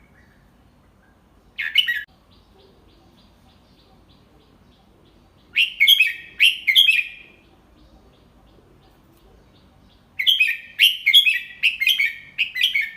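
Red-whiskered bulbul singing: a short phrase, then two longer bursts of quick chattering whistled notes, the last about three seconds long.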